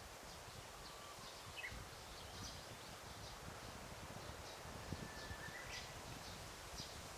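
Daytime forest ambience: several small birds giving many short, high chirps, with a few thin whistled notes that slide in pitch, over a steady soft hiss. A single brief tap about five seconds in.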